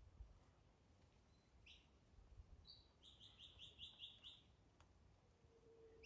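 Faint songbird song in the forest: a couple of separate high notes, then a quick run of about seven high, even notes lasting about a second and a half, beginning about three seconds in.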